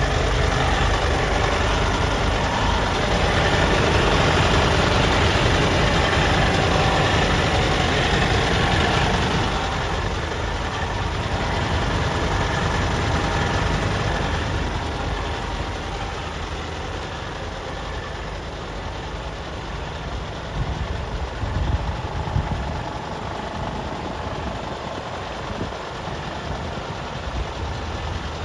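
A diesel engine idling steadily. It drops a little in level about nine seconds in, with a few brief knocks a little past the middle.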